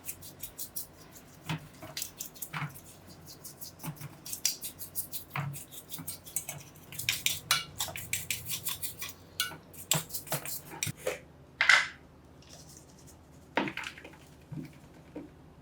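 Small metal parts clinking and knocking against each other and a hard surface as they are handled, with several quick runs of rapid clicks.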